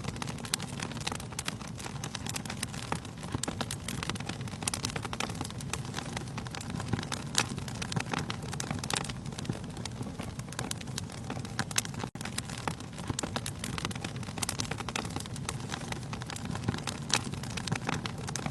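Wood fire burning in a fireplace: dense, irregular crackles and pops from the burning logs over a steady low rush of flame.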